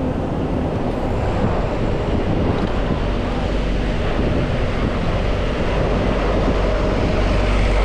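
Wind rushing over a chest-mounted action camera's microphone while cycling, a steady rumbling noise mixed with the sound of road traffic.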